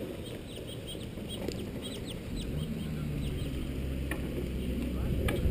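Birds chirping in quick, short, falling calls over outdoor background noise. A low steady hum starts about two and a half seconds in, and two sharp clicks come near the end.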